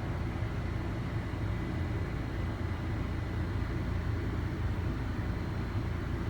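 Steady low rumbling background noise with a faint constant high whine and no distinct events.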